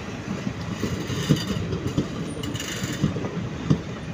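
Passenger train coaches rolling past, wheels clacking over rail joints in an irregular run of thumps over a steady rumble, with two louder knocks, one about a third of the way in and one near the end.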